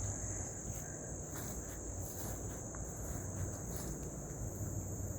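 Insect chorus: a steady, unbroken high-pitched buzz, over a low background murmur.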